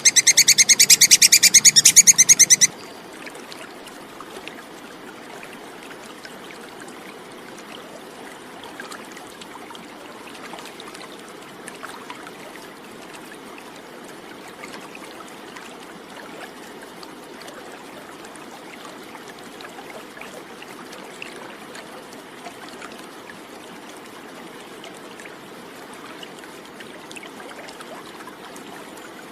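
Tupai kekes squirrel giving a loud, very fast, high-pitched chattering trill that cuts off suddenly about three seconds in. After that only a faint steady hiss remains.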